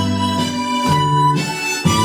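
Harmonica playing a slow melody in long held notes, over a low accompaniment that moves in steady steps.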